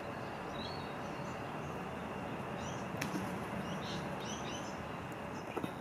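Steady outdoor background noise with faint, short, high bird chirps scattered through it, and a single sharp click about three seconds in.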